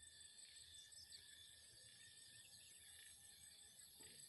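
Faint, steady evening chorus of calling insects and frogs: several unbroken high-pitched trills and tones.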